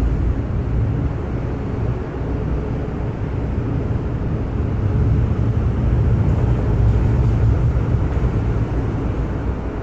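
MTR M-train electric multiple unit pulling out of an underground station: a loud, steady low rumble of the train running along the track, swelling about halfway through and easing slightly near the end.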